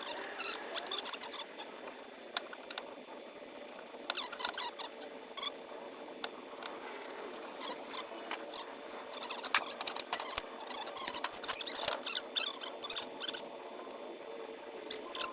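Scattered light clicks, taps and small scrapes of hand work on small wooden pieces, over a faint steady hum.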